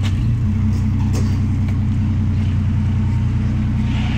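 Ford Falcon XR6's inline-six engine idling through its exhaust, a steady low drone whose pitch drops slightly about half a second in.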